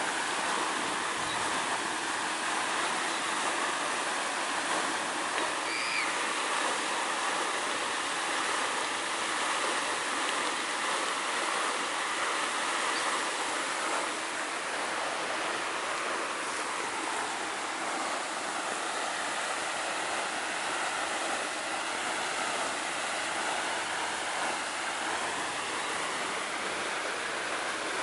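Running water rushing steadily, with no change in level. A faint short high sound is heard once, about six seconds in.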